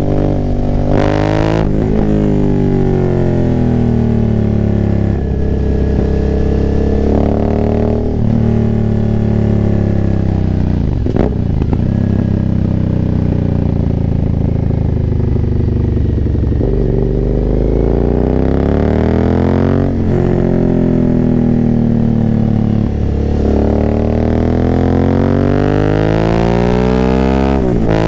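2019 Aprilia Dorsoduro 900's V-twin engine, running decatted on a full Arrow exhaust with no dB killers, pulling through the gears. The engine note climbs, then drops sharply at each upshift, several times over, with a couple of spells where it winds down before pulling again.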